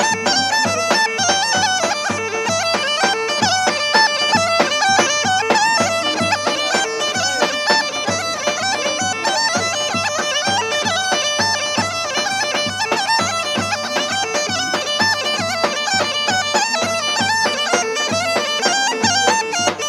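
Bulgarian gaida bagpipe playing a fast, ornamented folk tune over its steady drone, with a drum beating a regular rhythm underneath.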